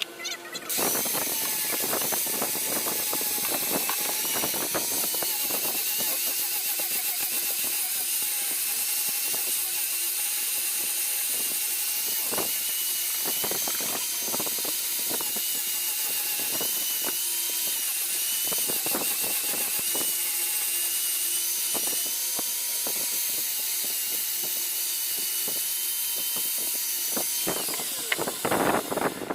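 An electric power tool running steadily with a high whine that wavers slightly in pitch. It starts about a second in and stops near the end, with scattered clicks throughout.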